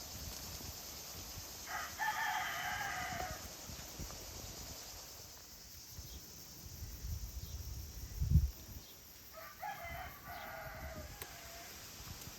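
A rooster crowing twice, each crow about a second and a half long, several seconds apart. A low thump comes shortly before the second crow.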